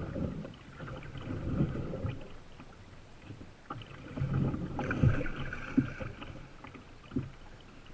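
Paddling a canoe: water sloshing with the paddle strokes in uneven swells, low rumbling on the microphone, and a couple of light knocks near the end.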